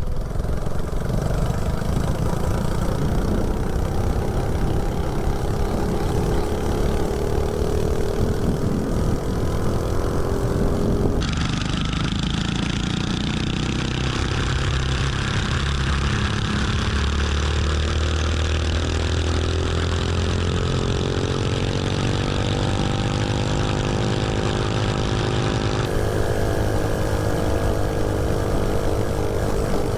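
Mini bike's 79cc LCT snowblower engine with a header pipe, running hard under way. Its pitch climbs slowly as the bike gains speed. The sound changes abruptly twice, about a third of the way in and again near the end.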